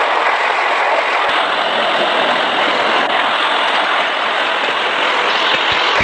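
Train running along the track: a steady, loud rushing noise of the train and its wheels on the rails.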